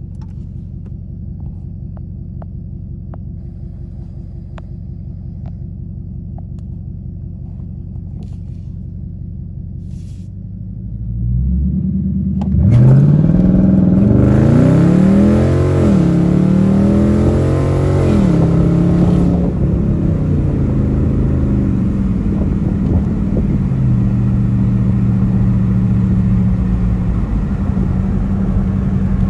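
Dodge Charger R/T's Hemi V8, heard from inside the cabin, idling and then launching hard from a stop about 11 seconds in for a 0-60 mph run. It revs up through the gears at full throttle, the pitch climbing and dropping at each quick upshift, for about eight seconds. Then it eases off to a steady cruise.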